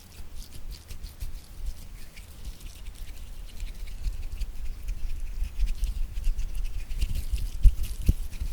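Rapid hand and finger tapping close to the microphone: a dense flurry of small, crisp taps over soft low thumps, growing louder toward the end.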